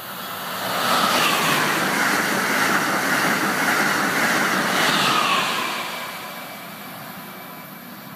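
Acela high-speed electric train passing close by at speed. Its rushing noise builds within about a second, stays loud for about four and a half seconds as the cars go by, then fades away as it recedes.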